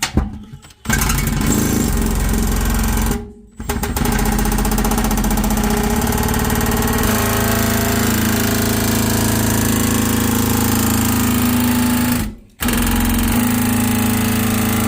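Electric power saw cutting through the ceiling and roof boards to make the opening for a fireplace chimney pipe. It runs in three long cuts with two short pauses between them, the second cut the longest.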